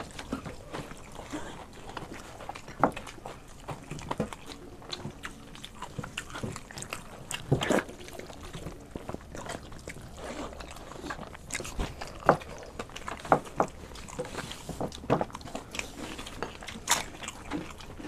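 Two people eating by hand close to the microphone: chewing and mouth smacking on panta bhat (water-soaked rice) and fried snacks. Sharp, irregular clicks of bites and smacks come every second or so.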